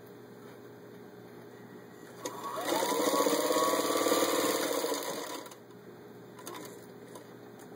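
1934 Singer 221-1 Featherweight sewing machine, its motor rebuilt, stitching through four layers of denim. After a click, the motor speeds up with a rising whine about two and a half seconds in, runs steadily for about three seconds, then slows and stops.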